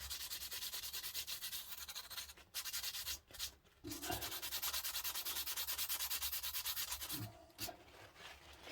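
Sandpaper rubbed by hand over a small model car part in quick, even back-and-forth strokes, a dry scratchy sound that stops briefly twice and eases off near the end.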